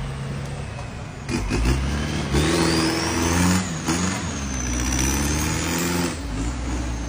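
Vehicle engine revving, its pitch rising and falling, with a thin high whine climbing in pitch along with it.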